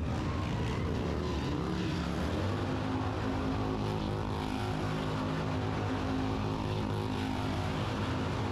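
Small motocross bikes' engines running with a steady drone.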